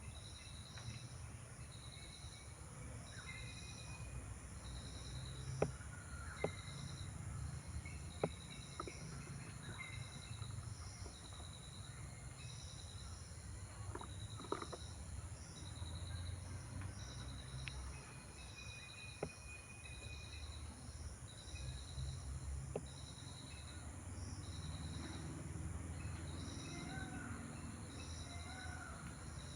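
Outdoor ambience: an insect chirps steadily, a high pulse about once a second. Scattered sharp clicks stand out above it, and a few short bird calls come near the end.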